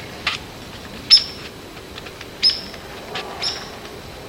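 Downy woodpecker giving its everyday call: short, sharp, high-pitched chirps, about one a second, over steady background hiss.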